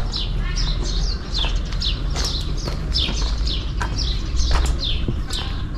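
Small birds chirping in the trees, many short falling chirps a few times a second, over a low steady rumble.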